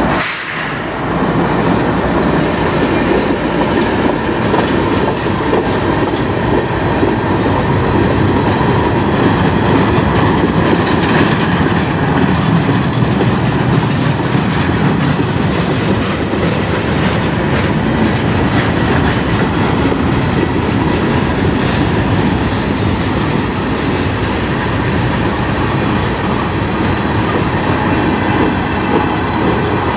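Freight cars of a manifest train rolling past close by: a loud, steady rumble of steel wheels on the rails.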